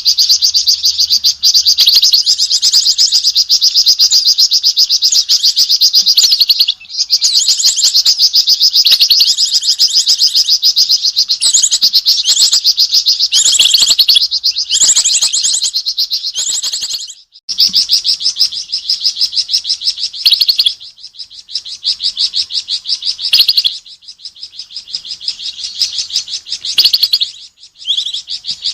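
A flamboyan bird calling in a fast, continuous run of high chattering notes, reacting to an owl in view. The calling breaks off briefly a few times and comes in shorter bursts near the end.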